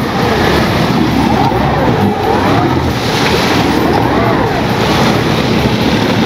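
Speedboat engine running loud under a steady rush of water and wind, its pitch wavering up and down.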